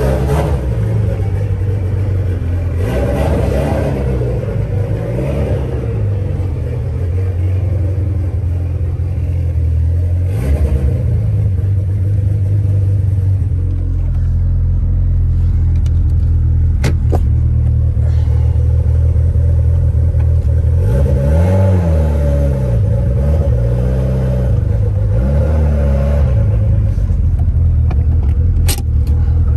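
Mitsubishi Lancer Evolution X's turbocharged four-cylinder engine running as the car is driven, its pitch rising and falling several times in the second half as the revs change. A few sharp clicks sound briefly over it.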